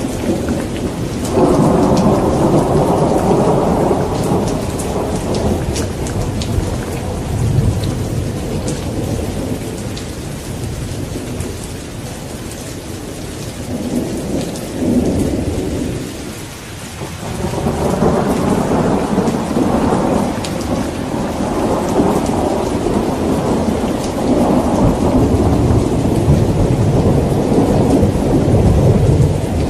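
Heavy rain falling with rolling thunder. The low rumbles swell about a second and a half in, ease to a lull around the middle, then build again and keep rolling, over a steady hiss of rain with scattered sharp drops.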